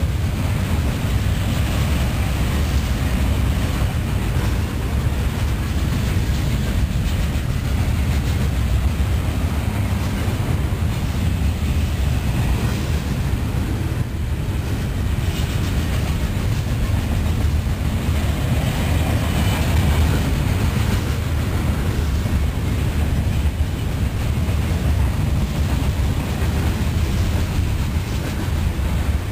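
Freight train of steel coal gondolas rolling past: a steady low rumble of wheels on rail.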